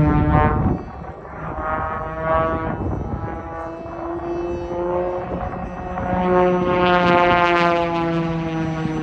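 Propeller-driven piston aircraft flying past, its engine and propeller droning with a slowly shifting pitch, growing loudest about seven seconds in as it passes closest.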